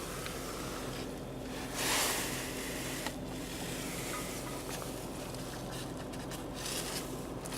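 Steady low hum of the Nissan Juke Nismo idling, heard inside the cabin, with a brief rush of noise about two seconds in and a few light clicks.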